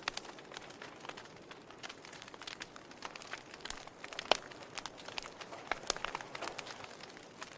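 Wood fire in a fireplace crackling, with many irregular small snaps and pops; one sharper pop stands out a little past the middle.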